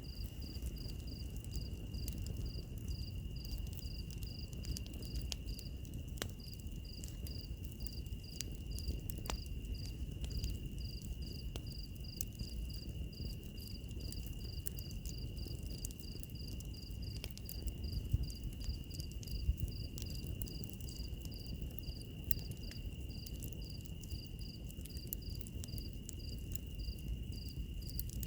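Insects calling: one steady high trill under a regular high chirp about three times a second, over the low rumble of a wood fire with scattered crackling pops.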